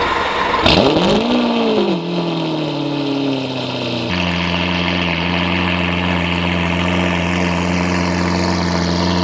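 Lamborghini Aventador LP700-4's V12 cold start through a Fi valved exhaust with forged carbon tips: the engine fires with a rev flare that rises and falls back within about two seconds and drops to idle. From about four seconds in it idles steadily.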